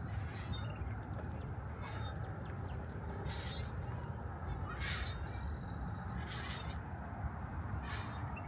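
Birds calling outdoors, short harsh calls repeating every second or two, over a steady low background rumble.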